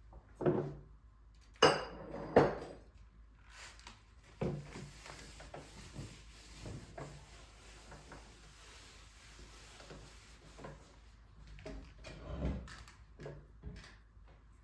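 Kitchen handling sounds: dishes and utensils being set down and moved, with two sharp clacks close together about two seconds in, then softer knocks and light shuffling.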